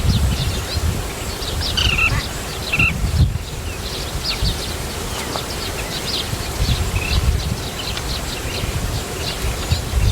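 Small birds chirping: a steady scatter of short, high chirps, with a few louder calls about two and three seconds in. A low, uneven rumble runs underneath.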